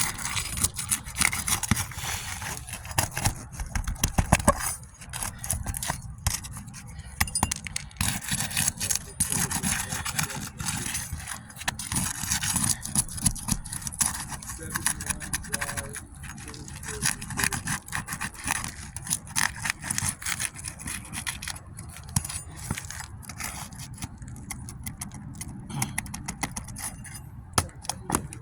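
Scraping, rubbing and irregular clicks of a tool prying and working under asphalt roof shingles to loosen them and pull their nails.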